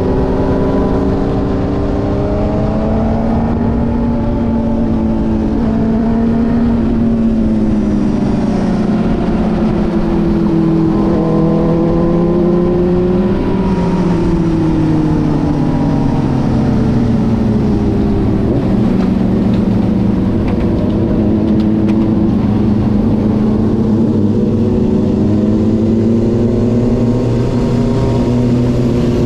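Motorcycle engine running under way, its pitch rising and falling slowly with speed and dipping about halfway through.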